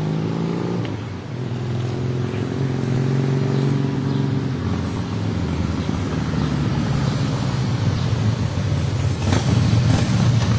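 Motorcycle engine running. Its pitch shifts in the first second, holds steady for a few seconds, then grows rougher and louder toward the end.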